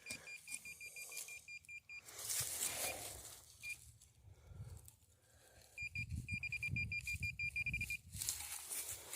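Metal detector sounding a rapid string of short, high beeps, all at one pitch, about seven a second, over a buried target. The beeping breaks off for a few seconds of rustling and scraping in the soil, then comes back faster, almost unbroken, near the end as the target is closed in on.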